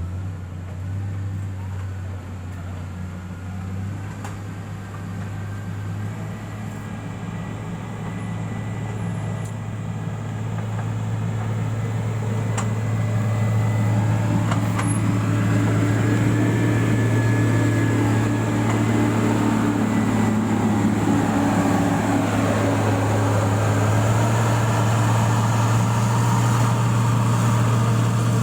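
Heavy road-construction machine's engine running steadily. It grows louder around halfway through, then holds.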